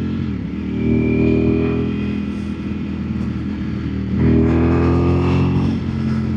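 Ducati naked superbike engine running under way. The revs drop and pick up again within the first second. From about four seconds in it pulls harder, the pitch rising steadily until a gear change near the end brings the revs down.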